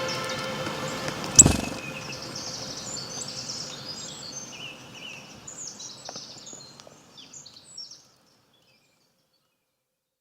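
Birds chirping over a hiss of outdoor ambience that slowly fades and cuts to silence about eight seconds in, with one sharp knock about a second and a half in.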